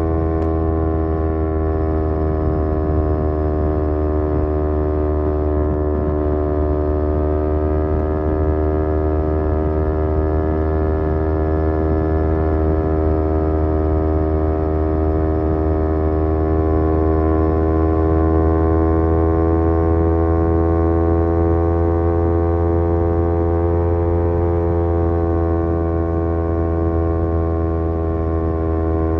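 Kawasaki Z250 parallel-twin engine running through an aftermarket SeaPro muffler while cruising at a steady pace. Its note sags a little in pitch, climbs again over several seconds past the middle, and eases off near the end.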